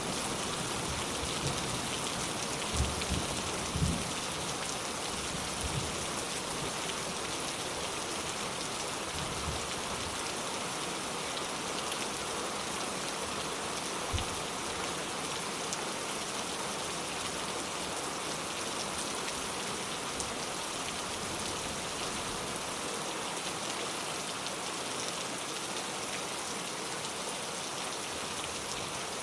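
Steady rain falling, an even hiss of many drops, with a few faint low knocks in the first few seconds and once near the middle.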